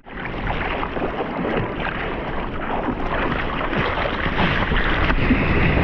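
Rushing, splashing sea water with wind buffeting the microphone, a dense steady noise that slowly builds in loudness.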